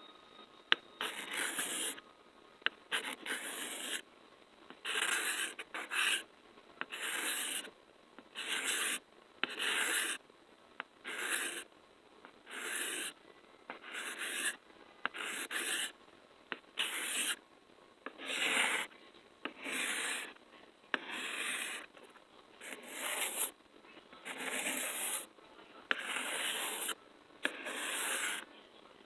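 Rhythmic rubbing strokes close up, about one a second, each a short scratchy swish lasting around half a second.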